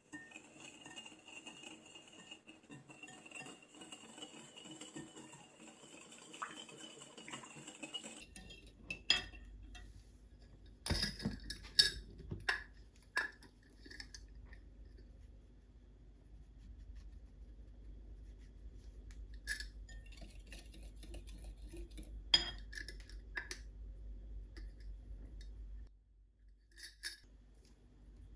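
Kitchenware clinking and knocking now and then: dishes, glass and metal utensils being handled, with the sharpest clinks from about ten seconds in, over a low steady hum.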